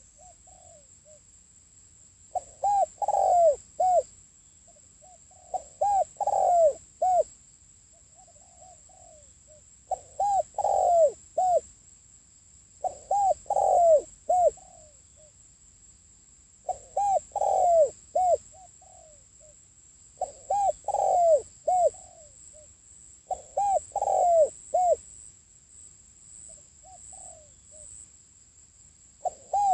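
Spotted dove cooing: a phrase of three or four low coos, repeated every three to four seconds, with softer coos between. This is the call used as a lure to bring in wild doves.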